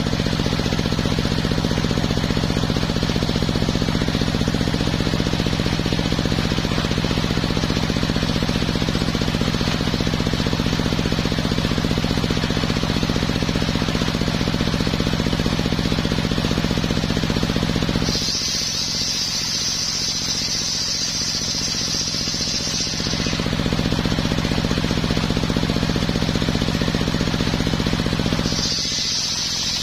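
Homemade engine-driven circular sawmill running while sawing coconut-palm timber: a steady, deep engine hum with a loud, rough edge. Twice, about eighteen seconds in and again near the end, it turns quieter and a high whine takes over.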